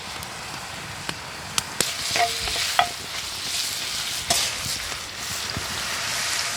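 Food sizzling and frying in a hot pan over a campfire, with a utensil stirring and scraping against the pan. Scattered sharp pops and clicks, and a few brief metallic rings about two to three seconds in.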